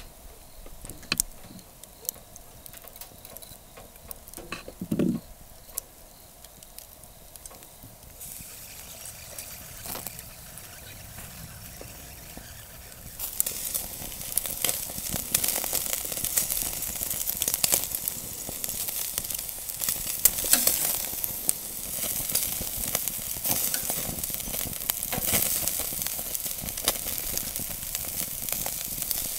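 Beef sirloin sizzling on a hot grill over a wood fire, with crackles and pops. It is faint at first and gets much louder about halfway through. Before that there are a few light clicks and a short knock.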